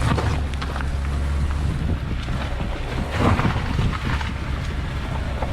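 Two-wheel-drive Hyundai Santa Fe climbing a rough unpaved mountain road, heard from inside the car: a steady low engine and road rumble with scattered bumps and rattles, loudest about three seconds in.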